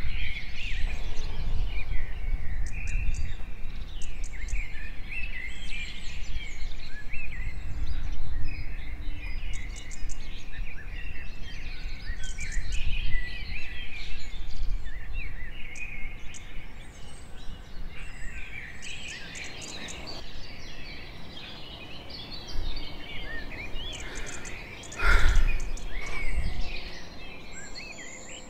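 Many birds chirping and calling over a low outdoor rumble, with a brief louder rush of noise near the end.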